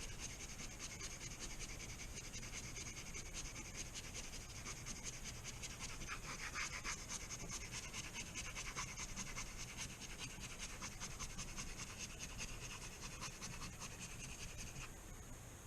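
Faint, irregular rubbing and scraping strokes of a squeegee smoothed over a vinyl skin on the back of a phone, pressing it down.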